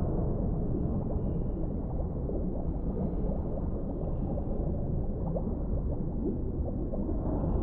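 Underwater ambience: a steady, muffled deep rumble with small gurgles and faint, thin high tones drifting over it.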